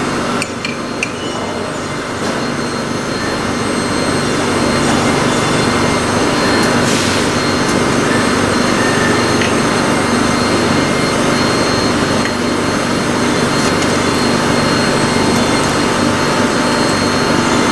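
LarsLap Model C1 portable valve grinder running steadily: its motor hums while the grinding head works the metal gasket seating face inside a pressure safety valve's bore.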